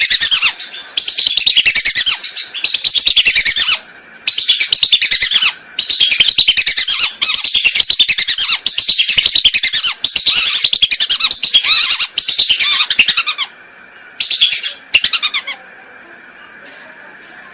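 Lesser whistling ducks (belibis) calling on a lure recording: loud bouts of rapid, high whistled notes that slide downward, repeated with short pauses, stopping near the end.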